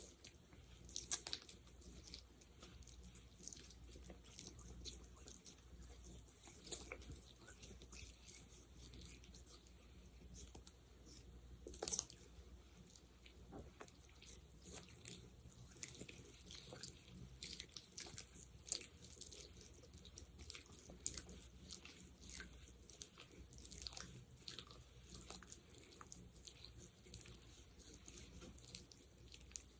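Quiet sticky, wet crackling of a gel such as aloe gel or petroleum jelly: a dense, irregular run of small clicks and pops, with one sharper pop about twelve seconds in.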